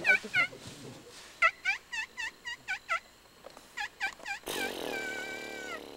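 A bird calling in a rapid series of short, dipping notes, about four a second, with a pause in the middle. About four and a half seconds in comes a longer, harsher call that holds two steady tones for more than a second before cutting off.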